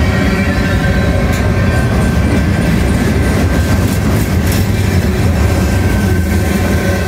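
Freight cars of a long manifest train rolling past at close range: a steady heavy rumble of steel wheels on rail, with a few sharp clacks about a second in and again around four seconds in.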